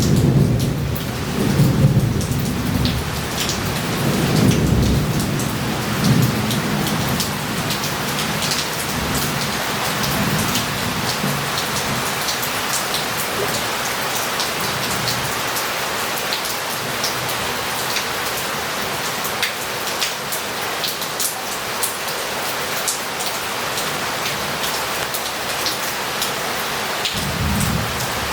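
Heavy thunderstorm rain falling and running off roof tiles and a street, with many small drops ticking through it. A low rumble of thunder fades away over the first few seconds, and another rumble starts near the end.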